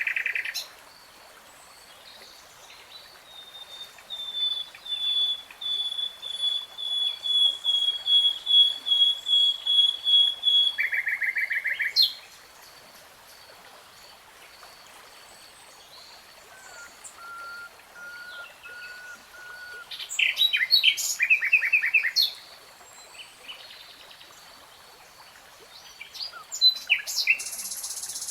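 Nightingale singing in separate phrases with pauses between them: a long run of repeated whistled notes that grows louder, a short buzzy trill, a few low whistles, then quick rattling and chattering notes.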